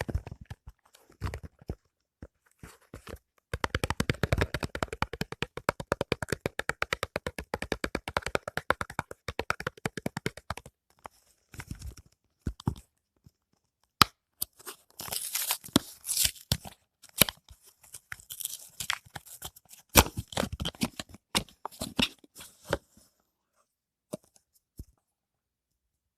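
Soap packaging being torn open and handled. A long run of rapid crackling clicks comes from about 3 to 10 seconds in. Later, bursts of hissy crinkling and a few sharp clicks follow, dying away about 23 seconds in.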